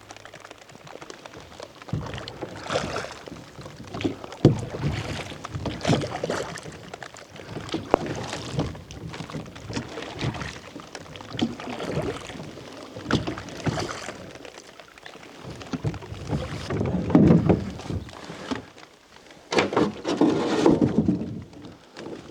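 Oars rowing a small boat, with splashy strokes coming every second or two and knocks of the oars in their locks.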